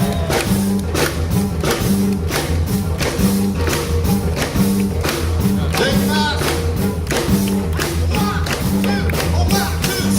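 A live band playing an upbeat number with a steady beat, a repeating bass line and drums.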